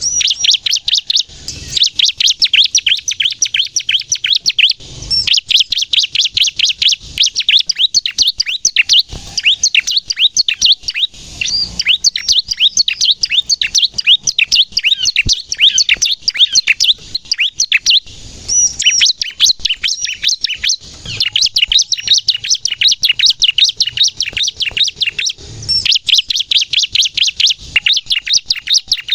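Bar-winged prinia (ciblek) singing hard: long runs of very rapid, high, sharp chirps, phrase after phrase with only brief pauses between.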